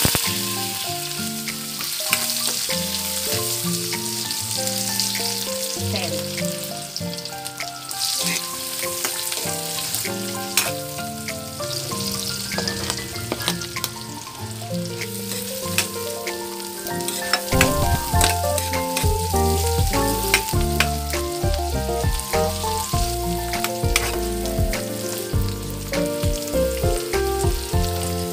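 Sliced onions and then garlic sizzling in hot oil in a metal wok, with a spatula clicking and scraping against the pan. Soft background music plays underneath, and a deeper bass line comes in about two-thirds of the way through.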